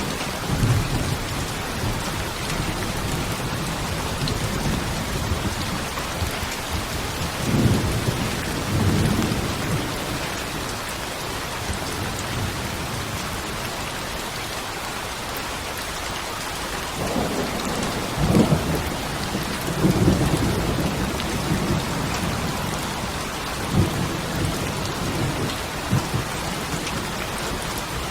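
Steady rain falling, with low rolls of thunder rumbling in several times, the strongest about a third of the way in and again past the middle.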